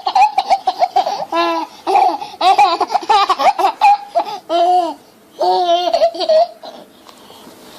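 A young child laughing in a run of high-pitched bursts. The laughter breaks off briefly about five seconds in, comes back once, then stops about six and a half seconds in.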